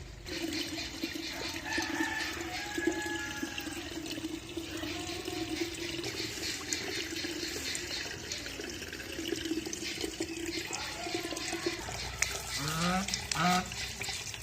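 Water running and splashing with a steady hum under it. A few short honks from geese come near the end.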